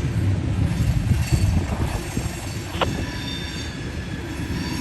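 Freight cars rolling through a curve, their wheel flanges squealing in several steady high tones over a low rumble of wheels on rail. There is a single sharp click about three seconds in.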